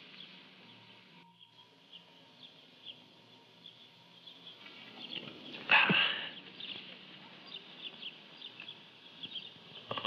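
Birds chirping faintly over a low hiss, with one short, louder sound about six seconds in.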